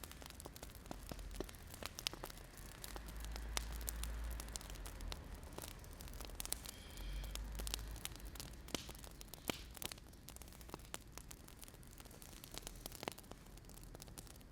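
Wood fire crackling: irregular sharp pops and snaps over a low steady rumble, with a brief faint high squeak about seven seconds in.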